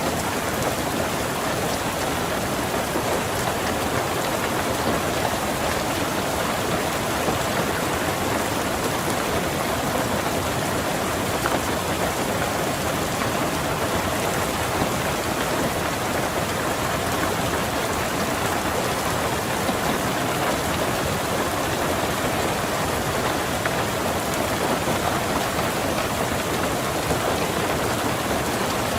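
Steady rain falling on a car, heard from inside the car.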